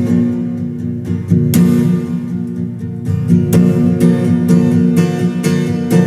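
Instrumental break of a country-style song: acoustic guitar strumming chords in a steady rhythm.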